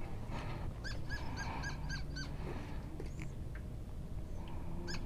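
A bird calling in runs of short, quickly repeated notes, about four a second: one run about a second in and another starting near the end. The calls sit over a steady low rumble.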